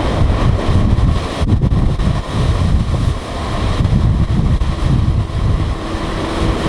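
Strong wind buffeting the microphone on an open ferry deck: a loud, gusty low rumble that rises and falls. A faint steady hum joins it near the end.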